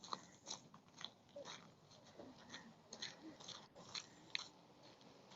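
Near silence, with faint, irregular small clicks and ticks scattered through it, about a dozen in all.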